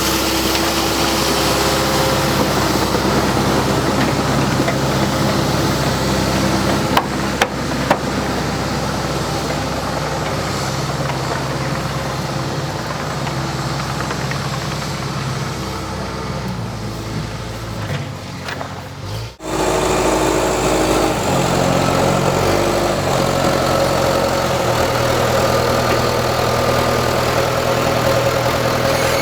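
An engine running steadily, its pitch stepping up and down several times as the revs or load change, with a few sharp clicks about seven to eight seconds in.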